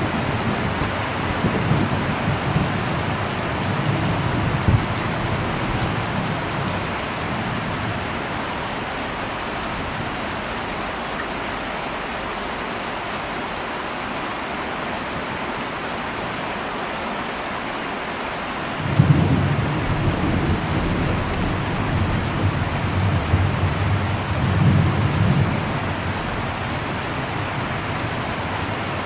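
Heavy rain drumming steadily on an old metal roof, with thunder. A rumble of thunder dies away in the first several seconds, then a new peal breaks suddenly about two-thirds of the way in and rolls on, swelling again near the end.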